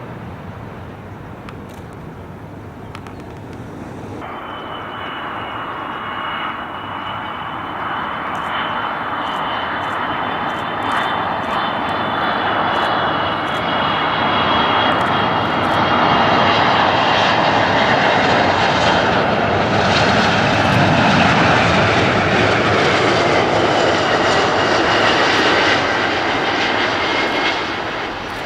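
Airliner's engines passing by: a rushing noise with a high whine, swelling from about four seconds in, staying loud for roughly ten seconds, then fading near the end.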